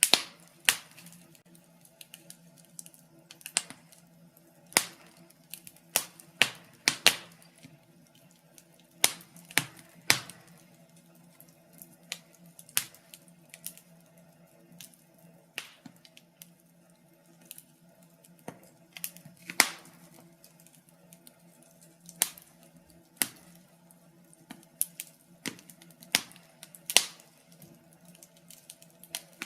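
Wood fire burning in a fireplace, crackling with irregular pops and snaps, some much louder than others, over a faint steady low hum.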